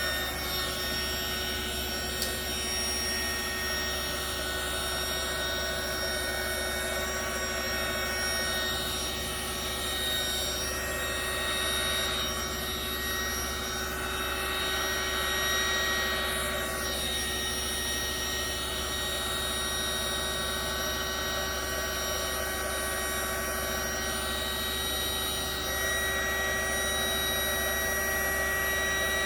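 Handheld electric blower, such as a heat gun used to push white resin into waves, running steadily: a whine of several tones over a rush of air, its tone sweeping a few times as it is moved about.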